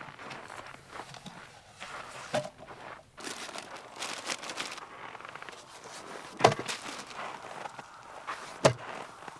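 Rustling and crackling from gear being handled at a winter tent camp, with three sharp knocks about two and a half, six and a half and nearly nine seconds in, the middle one the loudest.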